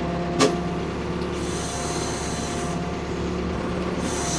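Ford P-42 excavator's engine running steadily under work. There is one sharp knock about half a second in, and a high hiss for about a second and a half in the middle.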